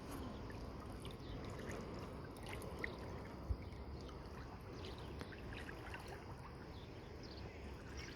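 Shallow freshwater stream running over stones: a steady rushing of water, with a couple of brief small knocks about three seconds in.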